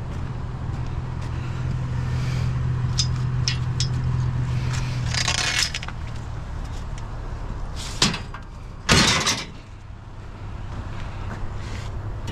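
A vehicle engine idling steadily, with rattles and clatters of metal scrap being shifted and packed into the vehicle. The loudest clatters come about eight and nine seconds in.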